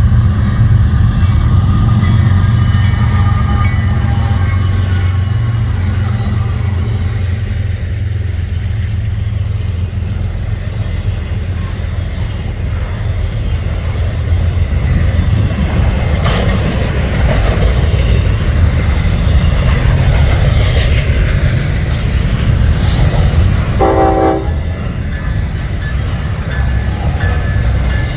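Freight trains passing close by: a loud, steady low rumble of diesel locomotives and rolling cars on the rails. A train horn sounds faintly during the first several seconds, and a short pitched tone comes about three-quarters of the way through.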